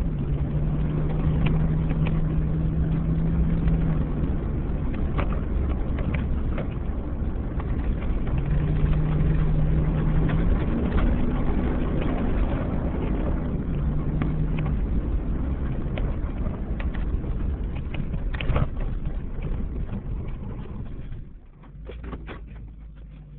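2007 Chevy Avalanche's V8 engine pulling hard, with gravel and road noise from the tyres and scattered clicks of stones. The engine note holds steady, climbs once in the middle and drops back. About three-quarters of the way through the sound falls off sharply as the truck slows down.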